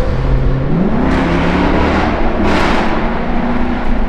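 Straight-piped Hemi V8 of a 2022 Chrysler 300 S pulling hard through a tunnel. The exhaust note climbs about a second in and then holds high, with a loud rush of exhaust noise building.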